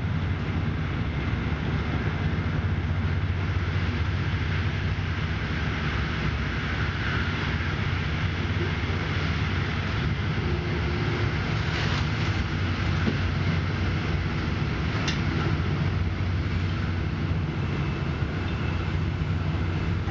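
Steady low rumble and rolling noise of a moving passenger train, heard from inside the carriage. A couple of faint clicks come through about twelve and fifteen seconds in.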